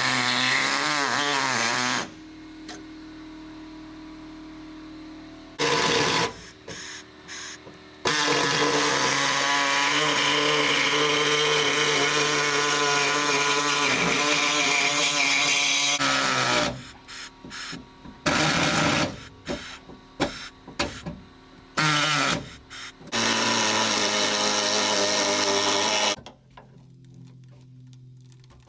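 Pneumatic air saw cutting through sheet-metal body panel, run in bursts on the trigger: a couple of seconds, several short stabs, a long steady cut of about eight seconds, then more short stabs and a final few-second run.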